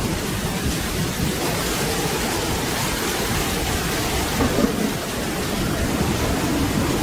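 Steady rain falling, with a low rumble of thunder underneath that swells slightly about two thirds of the way through.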